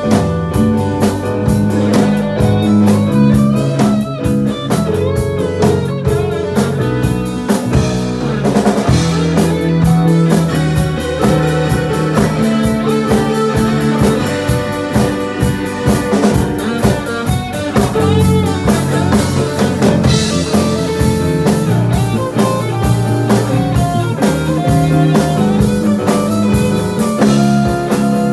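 A live rock band playing loudly through a PA, with guitar over drums.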